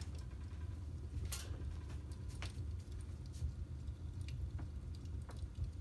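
Crackling log fire from a fireplace video on a TV: scattered sharp pops and snaps, about one a second, over a steady low rumble.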